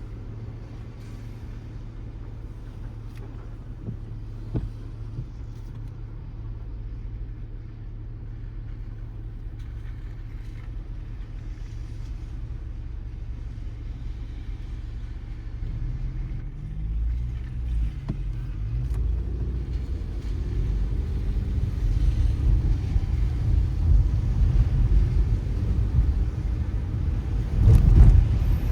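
A car driving on a wet road, its engine and tyre noise a steady low rumble that grows louder from about halfway as the car picks up speed, the engine pitch climbing. A sharp thump near the end.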